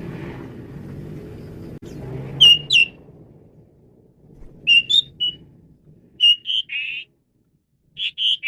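Male Javan pied starling (jalak suren) calling in short groups of loud, sharp whistled notes mixed with harsh raspy notes, about four groups in all. A low background hum fades out about halfway through.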